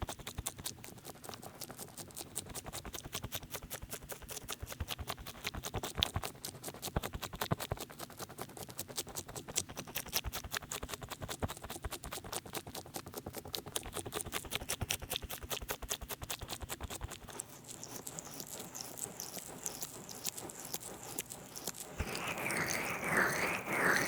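Oil-covered hands working over a binaural microphone, making dense, rapid wet sticky clicks; the squelchy sound comes from too much oil. About 22 seconds in, louder rhythmic rubbing strokes take over.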